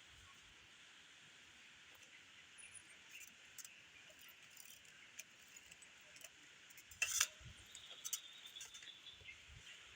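Faint steady hiss with scattered light clicks and chinks, and a sharper clatter about seven seconds in.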